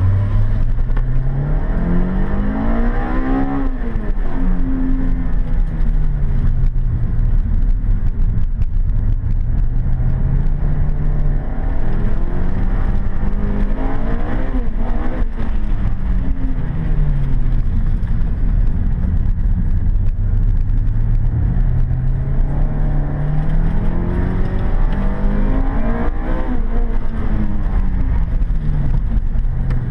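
Toyota Corolla Sportivo's 1.8-litre four-cylinder engine heard from inside the cabin. It revs up hard and drops back three times, peaking about three, fifteen and twenty-six seconds in, as the car accelerates and lifts off through a motorkhana run.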